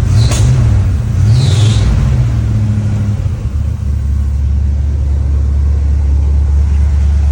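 1979 Jeep J20's AMC 360 V8 running just after being brought back to life from about five years sitting: it is revved a couple of times in the first three seconds, then settles to a steady idle. It runs with no knocks.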